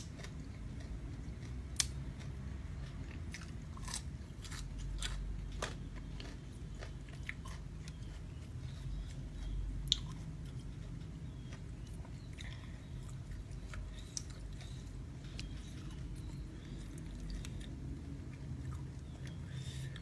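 A person chewing and biting a mouthful of raw shrimp close to the microphone: irregular wet clicks and small crunches throughout.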